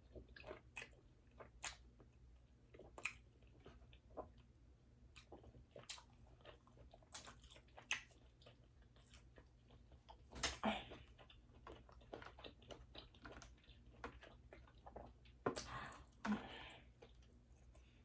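Quiet close-miked chewing of boiled seafood, with many small wet mouth clicks and louder bursts of chewing about ten seconds in and again near the end.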